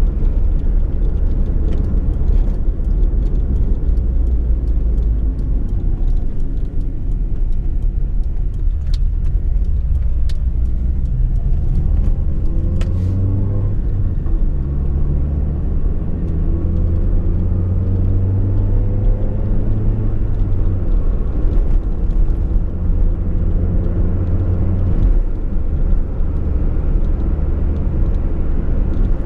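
Fiat Uno's engine and road noise while driving, a steady low rumble with the engine note climbing several times as the car accelerates.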